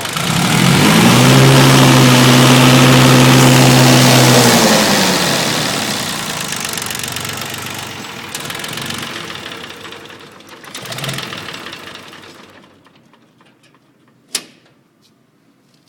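1986 International tractor's diesel engine running. It is revved up, held for about four seconds, then drops back, and its sound fades out and stops about twelve seconds in. A single sharp click comes near the end.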